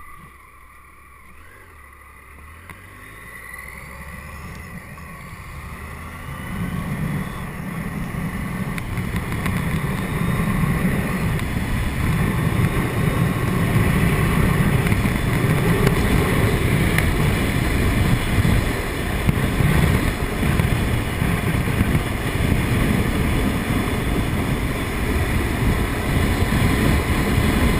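Wind rush around a motorcycle rider's helmet on a Triumph Tiger 800XC, with the engine beneath it, building steadily over the first ten seconds or so as the bike speeds up, then a loud, steady blast of wind noise at cruising speed of about 110 km/h.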